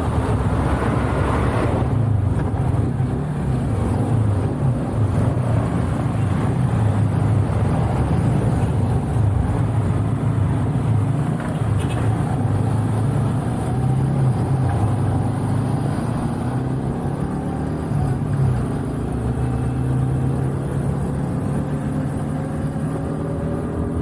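Motorcycle riding at road speed: a steady engine drone under low wind rumble on the microphone of an Insta360 One R action camera, with the wind reduced by its v1.2.18 firmware. A faint rising tone comes in near the end.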